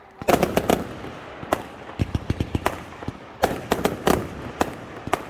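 Fireworks going off: many sharp bangs and crackling reports in quick clusters, with short gaps between the volleys.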